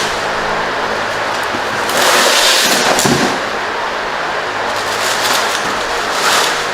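Crackling, rustling handling noise of packing material being pulled around a boxed engine, louder for about a second near the middle, over a faint steady hum.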